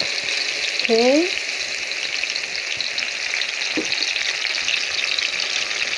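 Blended chili and garlic paste frying in hot oil in a wok, with a steady sizzle.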